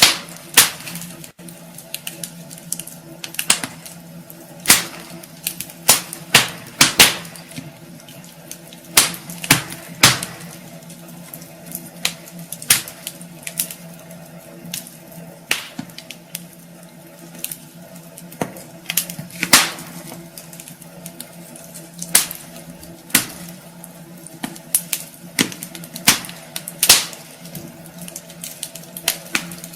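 Wood fire burning in a fireplace, crackling and popping at irregular intervals, with several sharp pops every couple of seconds over a faint steady hum.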